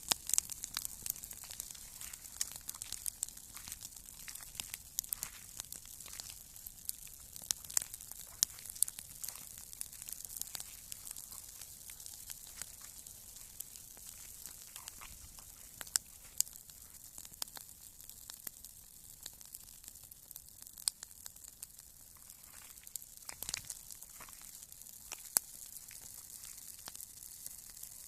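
Wood campfire crackling, with many sharp irregular pops and snaps over a steady hiss.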